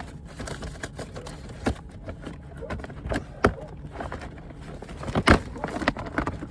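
A person crawling through a crawl space over its plastic encapsulation liner: irregular knocks, scrapes and rustling, with one louder thump about five seconds in.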